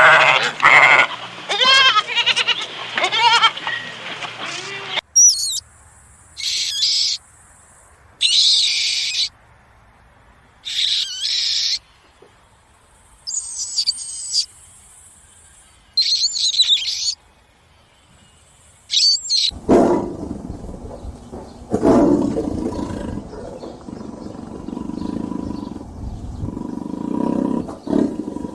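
A goat or sheep bleating, then a run of about seven short, high-pitched bird calls spaced a second or two apart, then the low, rough calls of a big cat roaring.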